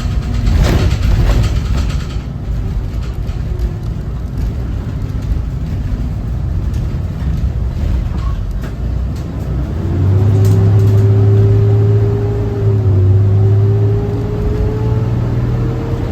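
School bus's Cummins ISB 6.7 diesel engine running on the road, heard from on board. About ten seconds in, the engine note grows louder and a whine begins to climb slowly as the bus accelerates, with a brief dip near thirteen seconds.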